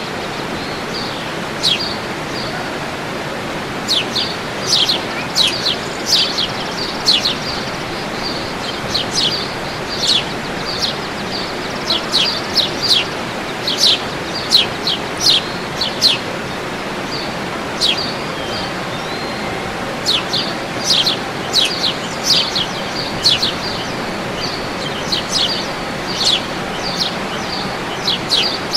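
Birds calling in quick, sharp, downward-sweeping chirps, several a second in bursts, over a steady rushing noise.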